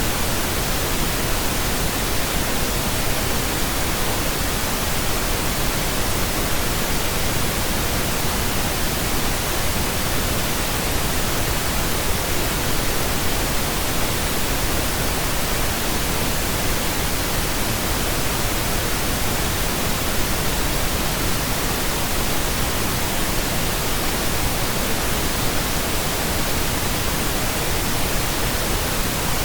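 Pink noise: a steady, even hiss with no change in level or character.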